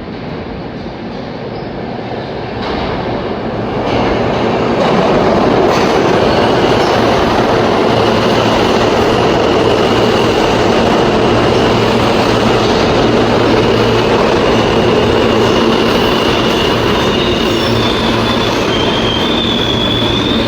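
New York City subway train approaching, growing louder over the first few seconds, then running loud and steady on the track, with a thin high wheel squeal that comes in a few seconds later and grows stronger near the end.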